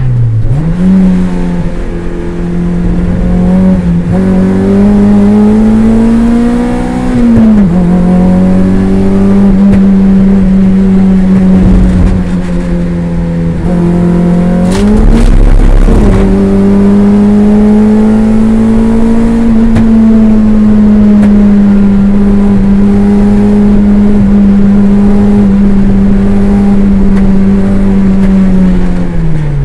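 Toyota MR2 race car's engine heard from inside the cabin, running hard at steady high revs on the throttle. The pitch falls and climbs back a few times as the driver lifts off and changes gear, most sharply about halfway through and again at the very end.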